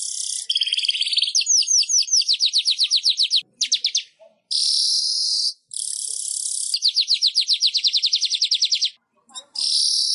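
Manyar (weaver bird) song: hissing buzzes of about a second each alternate with long, rapid trills of sharp down-slurred notes at about eight a second, the phrases repeated with brief pauses between them.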